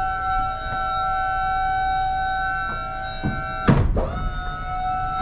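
Box truck liftgate's hydraulic pump motor running with a steady whine as the gate is lowered. It breaks off with a clunk a little over three and a half seconds in, then resumes at a slightly lower pitch.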